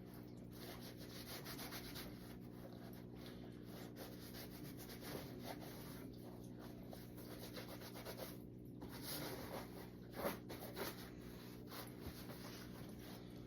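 Paper towel rubbing over a sneaker, drying it: uneven scuffing and rustling with a few light knocks, over a steady low hum.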